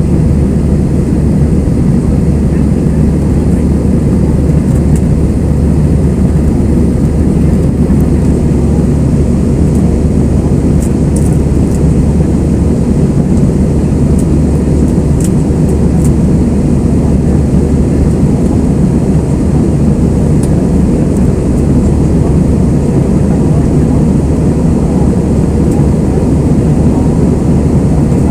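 Airbus A320 passenger cabin noise: a loud, steady, low rumble of the jet engines and airflow, unchanging throughout, with a few faint high clicks in the middle.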